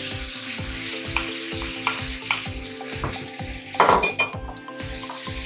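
Quail and onion frying in oil in a pot, sizzling steadily as a wooden spoon stirs them, with regular knocks and scrapes of the spoon against the pot. About four seconds in there is a louder burst of crackling as bay leaves and chopped garlic are dropped into the hot oil.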